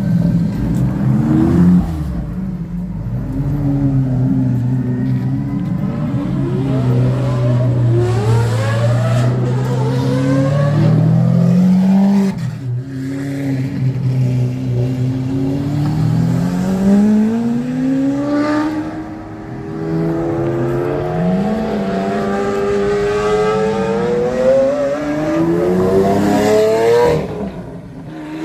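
Sports car engines revving and accelerating, the pitch climbing and dropping again and again, with short lulls about 12 and 19 seconds in.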